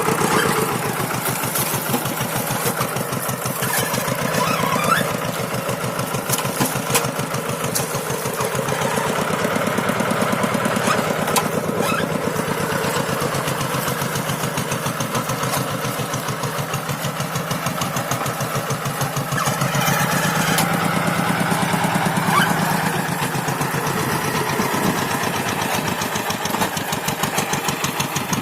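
Tractor's diesel engine running steadily with an even chugging while pulling a moldboard plough through soil, a little louder around twenty seconds in.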